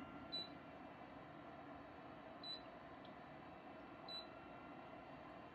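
Three short, high beeps about two seconds apart, over a faint steady hum.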